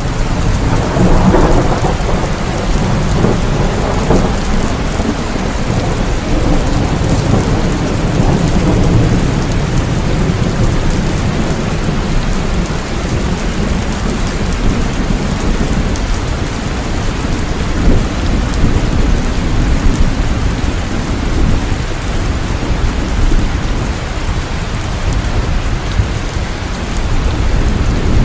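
Steady heavy rain hissing, with a long rolling rumble of thunder that swells in the first few seconds and slowly fades, and a deep rumble again near the end.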